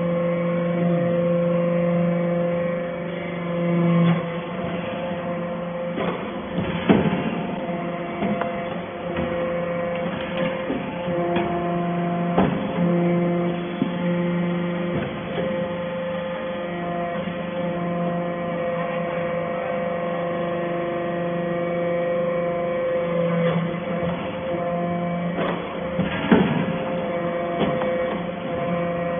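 Hydraulic metal-chip baler running: a steady hum of several fixed pitches from its motor and pump, broken by a dozen or so sharp clanks through the run.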